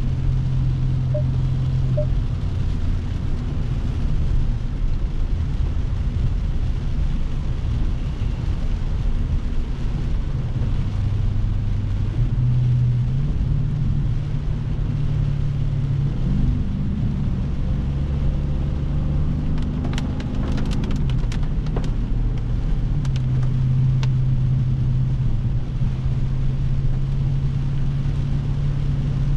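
Dodge Scat Pack's 392 Hemi V8 running while driving in the rain, a steady low engine note over rain and road noise. About halfway through the engine note rises as the car accelerates, then drops back.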